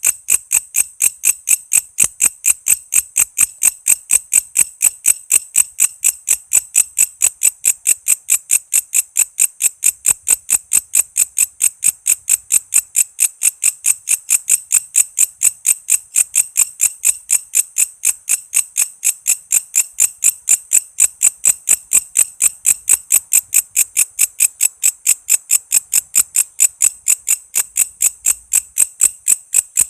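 Walang kece, a katydid (bush cricket), calling in a steady, unbroken series of sharp high chirps, two to three a second.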